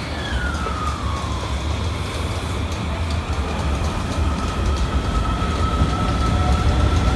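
Kita-Osaka Kyuko 8000 series subway car running, with the whine of its Toshiba IGBT VVVF inverter over a low rumble. The whine falls in pitch over the first second and a half, then holds as a steady tone while the running noise slowly grows louder.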